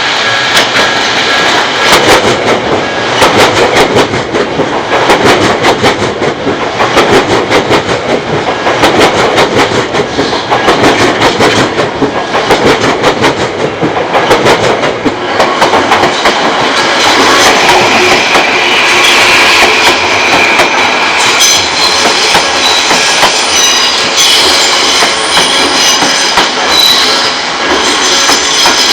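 An Odakyu electric commuter train passes close by, its wheels clacking rapidly over the rail joints. The clacking eases after about half the time. Steady high-pitched tones come in near the end.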